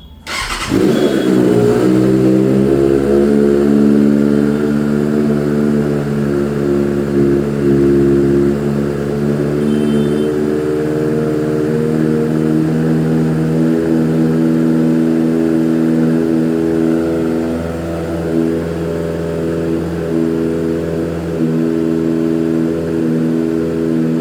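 Kawasaki ZX-6R's inline-four engine cold-started: it fires up just after the start and then idles steadily while still cold.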